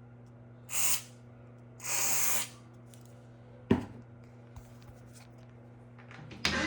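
WD-40 aerosol spray can hissing in two short bursts, the second a little longer, as lubricant is sprayed onto a rusty door hinge. A single sharp knock follows a couple of seconds later.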